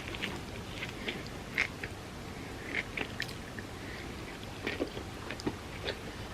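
A person biting into and chewing crispy fried food, with irregular sharp crunches.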